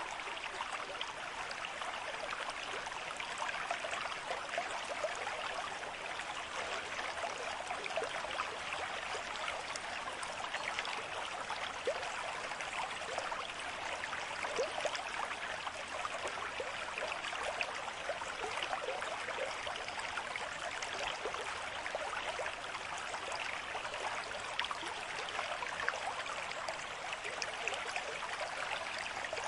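Small stream babbling steadily, a constant rush of running water full of little gurgles.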